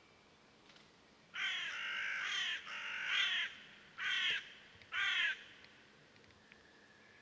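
Harsh, crow-like cawing bird calls: two longer calls a little over a second in, then two short caws about a second apart.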